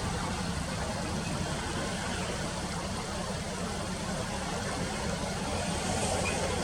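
Steady outdoor background noise: a continuous low hum under an even hiss, with no distinct event standing out.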